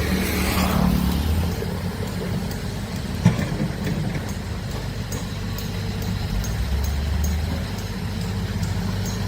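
Heavy diesel engine of large earthmoving equipment running steadily with a low drone, with one sharp knock about three seconds in.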